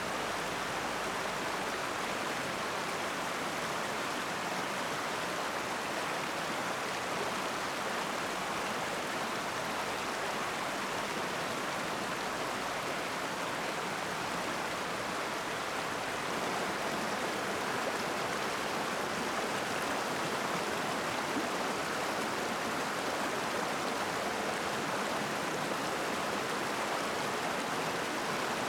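Steady rush of running water, like a stream flowing, unbroken and even in level.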